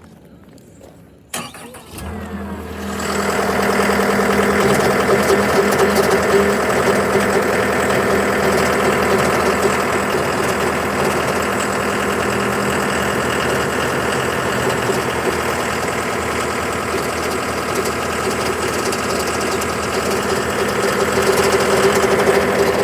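John Deere 325G skid steer's diesel engine cranked and started about a second in, then running steadily. It is being run briefly to check whether a hydraulic fluid leak has been cured.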